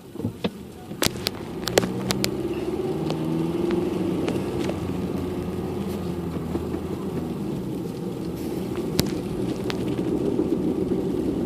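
Car running, a steady engine hum that grows louder about two seconds in, with several sharp clicks and knocks near the start.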